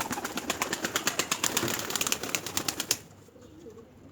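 Domestic pigeon beating its wings rapidly, about nine wingbeats a second, stopping about three seconds in. After that, pigeons cooing faintly.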